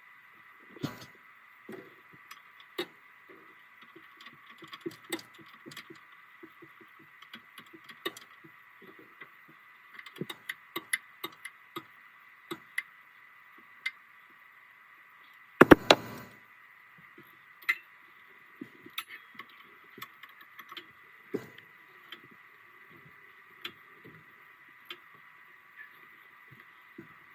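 Hand tools clinking and knocking on metal in irregular clicks, with one heavy knock about halfway through, while torque converter bolts are being fitted. A faint steady high tone runs underneath.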